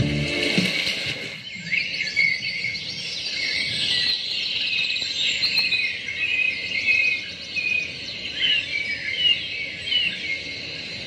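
Birds chirping and calling, many short rising and falling chirps over a bed of insect-like trilling, after a guitar music track cuts off about a second in.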